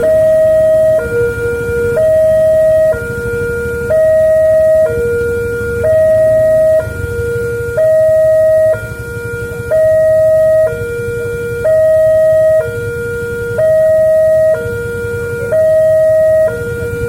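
Railway level-crossing warning alarm sounding a steady two-tone electronic signal, high and low notes alternating about once a second, the higher note louder, warning that a train is approaching. A low rumble lies underneath.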